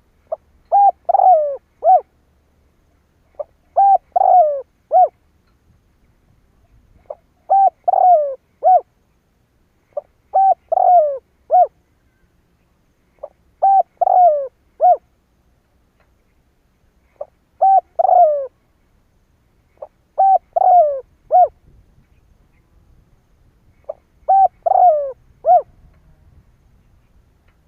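Spotted dove cooing: a short phrase of a lead note followed by three or four quick coos, repeated eight times at intervals of about three to four seconds.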